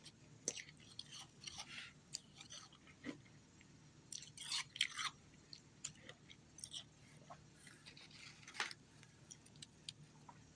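A person biting and chewing ice: irregular crisp crunches, thickest and loudest about four to five seconds in.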